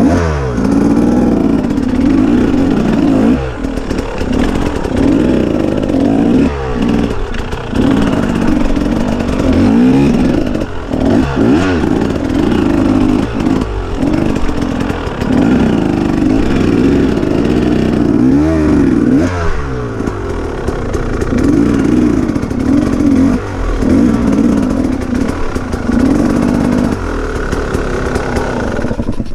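KTM EXC enduro motorcycle engine revving up and down under riding. The pitch climbs and falls again every few seconds as the throttle opens and closes, with a few brief drops, and there is some clatter.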